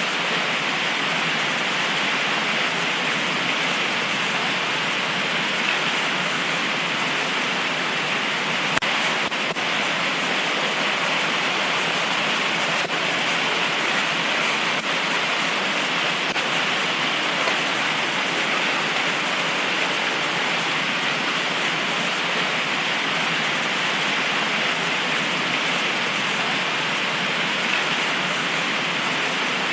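Heavy tropical rain pouring steadily, an even hiss with no let-up.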